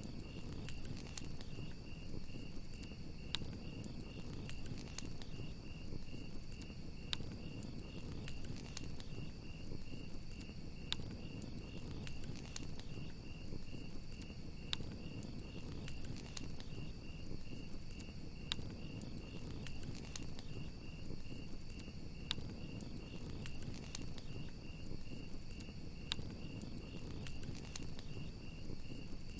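Crickets chirping in a steady, rapid, evenly pulsed trill over a campfire. The fire gives a low rumble of burning with sharp crackles and pops every second or two.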